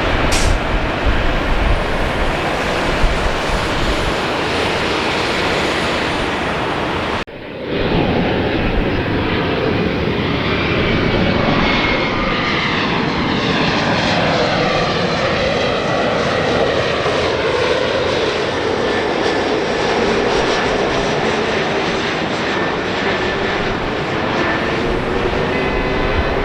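Jet airliner engines passing close by: a steady loud noise, then after an abrupt break about seven seconds in, engine noise with whining tones that slide slowly downward in pitch as the aircraft goes past.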